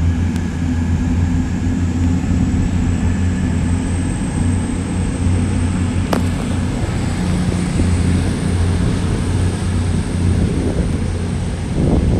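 A passenger train running past on the main line: a steady low hum with a faint high whine above it. Wind buffets the microphone near the end.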